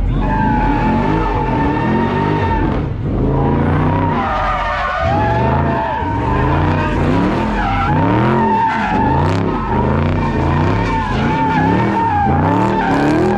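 Car engine revving up and down over and over under a continuous tyre squeal: a car sliding with its rear tyres spinning.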